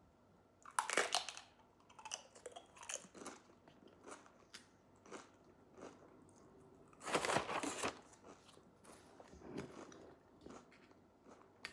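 A person biting and chewing crunchy food close to the microphone: irregular crunches, the loudest about a second in and again about seven seconds in.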